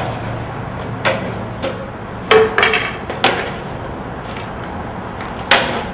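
A few sharp knocks or bangs at irregular intervals, the loudest near the end, over a low steady hum.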